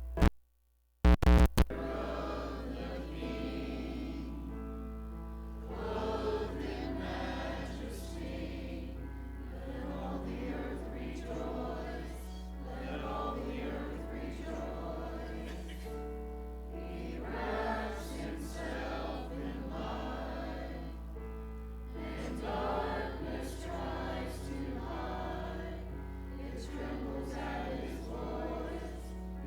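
Congregation singing a hymn together over instrumental accompaniment, with a steady low hum underneath. Right at the start the audio drops out briefly and there are a few loud clicks.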